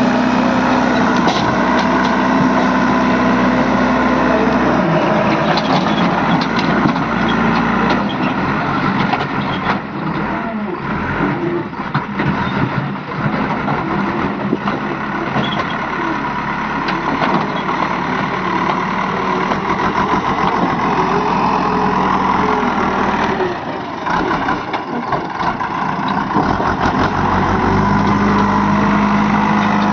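Heavy diesel engine running steadily, its speed dropping about five seconds in and rising again near the end.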